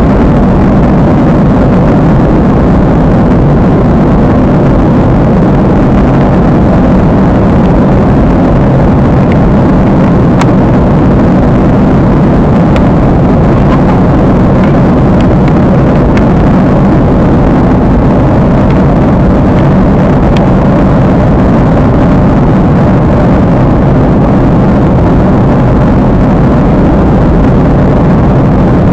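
Steady, loud jet airliner cabin noise in flight: engine and airflow rumble that holds even throughout, heaviest in the low range.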